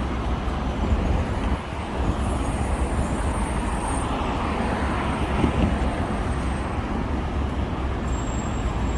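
City bus running on the road: a steady low rumble of engine and road noise.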